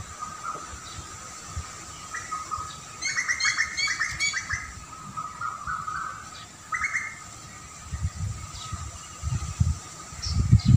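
Small birds chirping: a quick run of bright chirps about three to four seconds in, then a few scattered calls. Low rumbles come in over the last few seconds.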